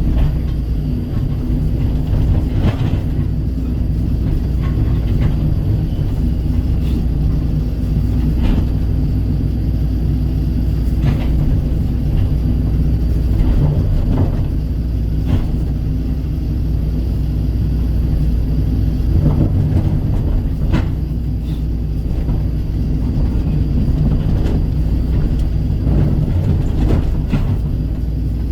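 Kobelco SK135 excavator's diesel engine running steadily under work, with a low hum and occasional sharp knocks scattered through it.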